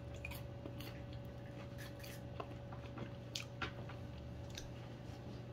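Faint, irregular crunching of someone chewing kettle corn popcorn, over a steady low hum.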